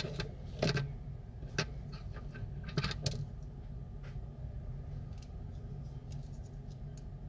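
Small metal tools and parts clicking and tapping during phone repair work: a few sharp clicks in the first three seconds, then fainter ticks, over a steady low hum.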